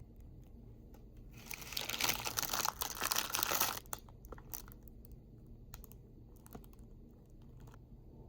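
Crinkling of packaging, handled for about two and a half seconds, followed by a few scattered light clicks and taps.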